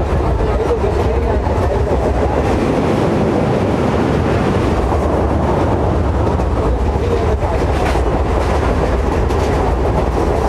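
Suburban EMU local train running, heard from on board: a steady rumble and rattle of the wheels on the track.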